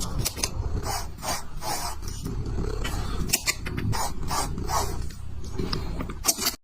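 An animal growling in repeated short, rough bursts, which cut off suddenly at the end.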